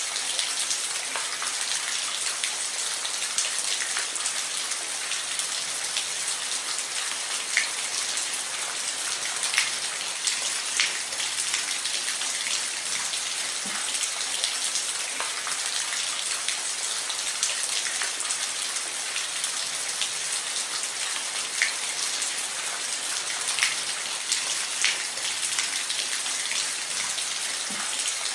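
Steady rain falling on a roof: an even hiss with many single drops ticking sharply through it.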